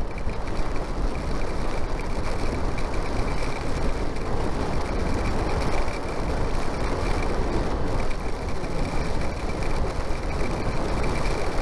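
Steady wind and road noise from a Yamaha motorcycle under way, with a thin, steady whine running through it.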